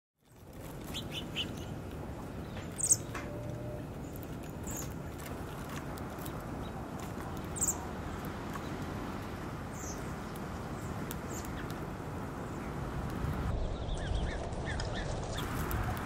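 Small birds chirping: a few short, high chirps, the loudest about three seconds in and again near eight seconds, with fainter chirps between, over a steady low background noise.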